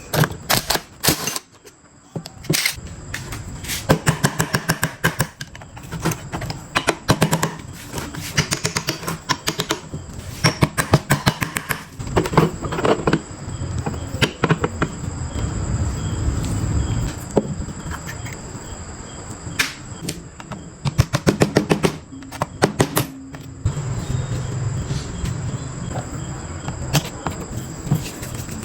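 Bursts of rapid clicking and tapping from hand-tool work on metal parts, several strikes a second with short pauses between the bursts.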